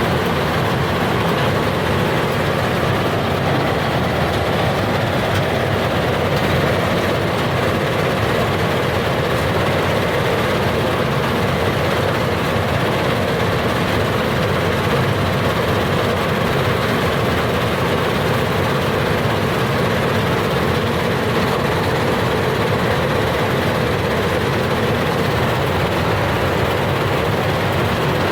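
Combine harvester running steadily at work, its engine and machinery making a loud, even mechanical din that does not change.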